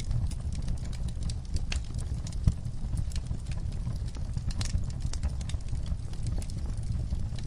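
Wood fire crackling in a fireplace: dense, irregular snaps and pops over a steady low rumble, with one louder pop about two and a half seconds in.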